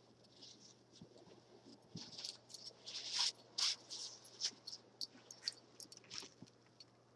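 Snow crunching: an irregular run of sharp crunches and clicks, loudest around the middle.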